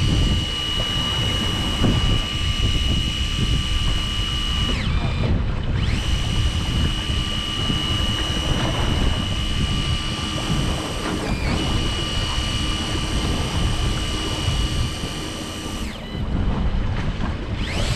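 Electric fishing reel's motor whining steadily as it winds in line, stopping and starting again about three times with a brief slide in pitch at each change, over a constant low rumble of boat engine and wind.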